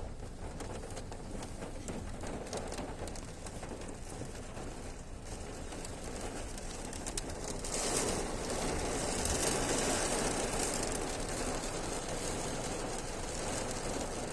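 Steady rain falling, growing heavier about eight seconds in, with scattered drips.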